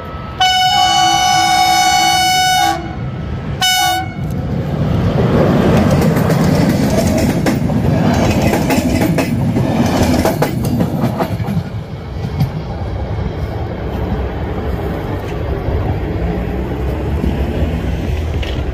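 Passenger train's horn sounding one long blast and then a short one. The locomotive and carriages then pass close by, with heavy rumble and wheel clatter over the rail joints, easing off as the train moves away.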